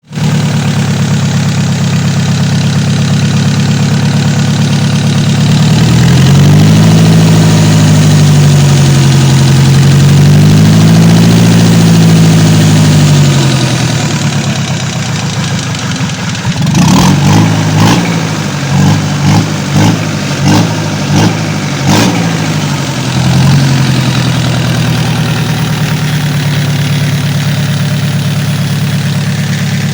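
Mitsubishi D56 diesel engine idling, revved slowly up and down twice, then given a quick series of short throttle blips before settling back to a steady idle.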